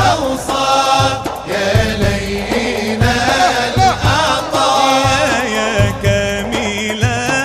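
Eastern-style Arabic nasheed: a voice singing a wavering, ornamented melody over a steady deep beat.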